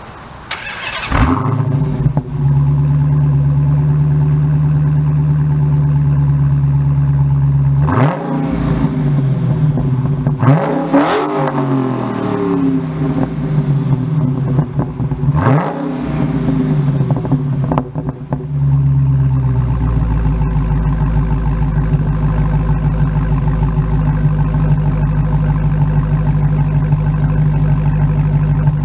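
2015 Dodge Challenger SRT Hellcat's supercharged 6.2-litre HEMI V8 exhaust. It starts up about a second in and idles steadily, then is blipped a few times in quick revs that rise and fall. Near the end it settles to a lower, steady idle.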